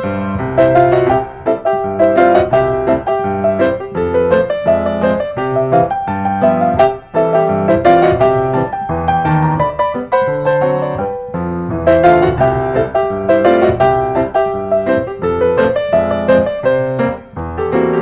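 Background piano music: a lively melody of quickly struck notes.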